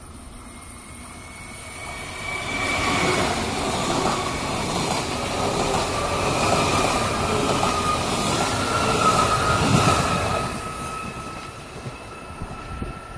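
Red DB S-Bahn electric train passing close by: wheels running over the track with a steady high whine, building about two seconds in and fading after about ten seconds.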